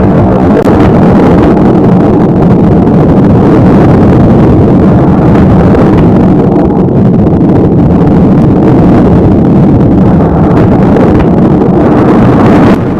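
Loud, steady rush of a thunderstorm, with wind buffeting the microphone and no single thunder crack standing out. The level drops a little just before the end.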